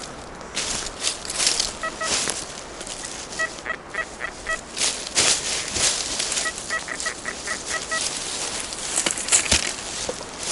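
Metal detector giving three runs of quick, steady-pitched beeps, several a second, as it passes over a target. Loud rustling crunches of forest-floor leaves run through it.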